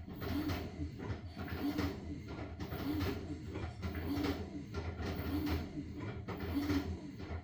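LG washing machine running a wash cycle with blankets inside: a low motor hum under a sloshing, whooshing sound that repeats about once every second and a bit as the drum turns back and forth.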